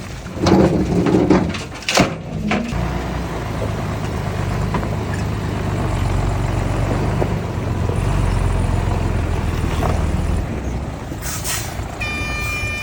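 Heavy earthmoving machine's diesel engine running steadily, after a few loud knocks in the first couple of seconds. A steady high-pitched tone starts near the end.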